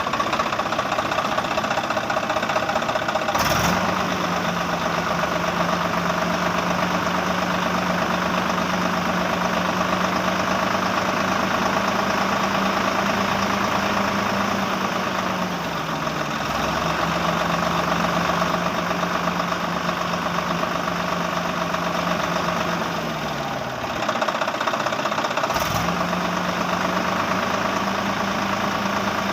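A small motor running steadily with a buzzing mechanical noise. A lower, steady motor hum starts with a click a few seconds in, dips in pitch about halfway, sags and stops, then starts again with another click near the end.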